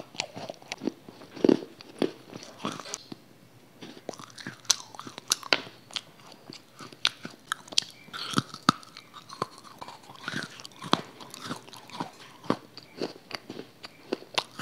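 A person chewing and biting crisp food right at a small clip-on microphone: a quick string of sharp crunches and wet mouth clicks, with a short pause about a quarter of the way through.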